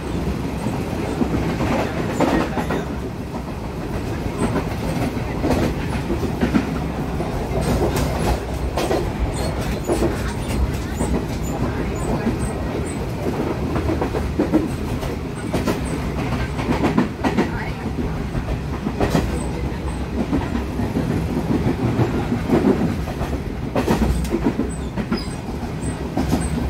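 Passenger train running along the line, heard from inside the carriage: a continuous rumble of wheels on rails with irregular clacks over rail joints.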